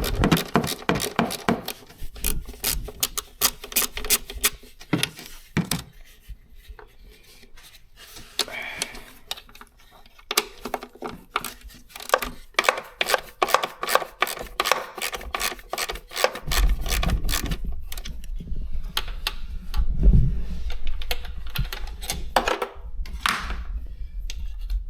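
Socket ratchet clicking in quick runs as a 5/16-inch socket loosens the throttle body's mounting bolts, with a low rumble through the second half.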